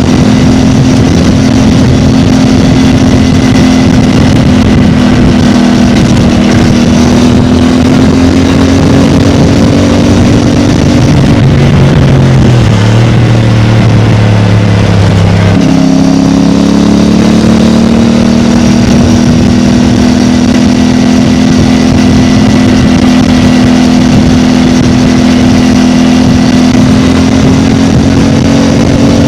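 CFMOTO 450MT's parallel-twin engine running through its stock exhaust at a steady engine speed. A little before halfway the note sinks as the engine slows, then it picks up suddenly and climbs gradually as the throttle is opened again.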